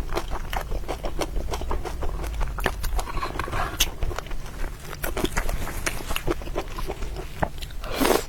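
Close-miked ASMR eating sounds: chewing and mouth smacks in a dense run of short clicks, with a louder, longer mouth sound near the end.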